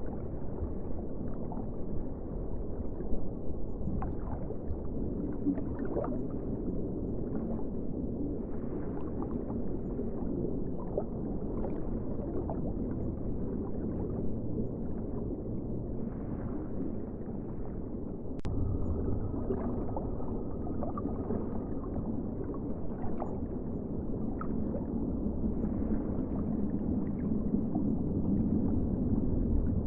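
Ocean water sound: a low, muffled wash of moving water with gurgling throughout and a sharp click about 18 seconds in.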